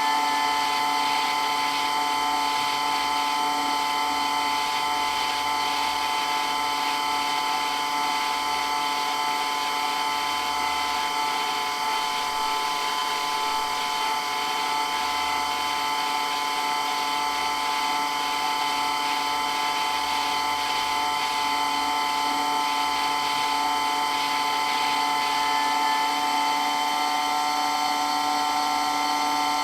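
Water pump for water blasting running steadily, a constant motor whine with several high steady tones over a hiss.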